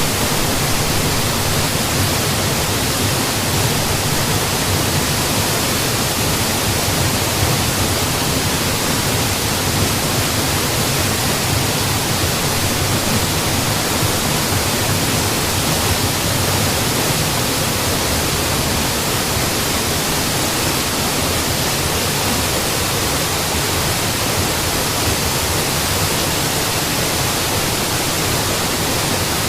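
Waterfall crashing in a steady, unbroken rush of water noise, with no changes or separate events.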